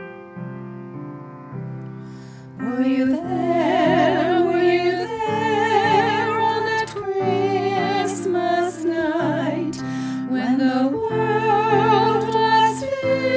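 Women's vocal trio singing a Christmas song with vibrato over piano accompaniment; the piano plays alone at first and the voices come in about two and a half seconds in.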